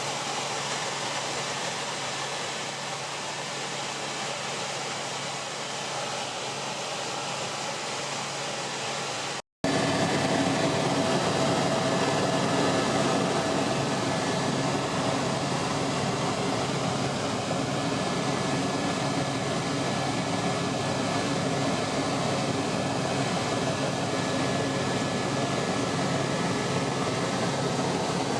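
Helicopter in flight: a steady engine and rotor drone with constant hum tones. It drops out for an instant about nine seconds in and comes back louder.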